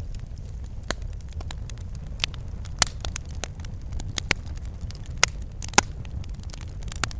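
Wood fire burning in a fireplace: a steady low rumble of flames with irregular crackles and a few sharp pops, the loudest about three and six seconds in.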